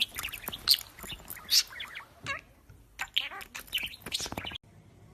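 A pet parrot giving quick, short, high chirps and whistles, a few of them sliding down in pitch. The calls cut off abruptly near the end, leaving only faint background noise.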